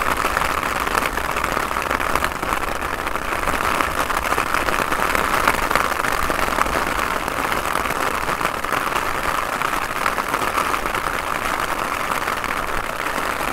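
Heavy rain falling, a steady hiss, with a low rumble of gusty wind on the microphone.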